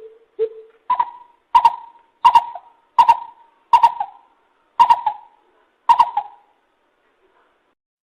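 Lesser coucal calling. Two low notes open the call, then it steps up to a run of about eight higher notes, roughly one every 0.7 seconds, several of them doubled. The series stops about six seconds in.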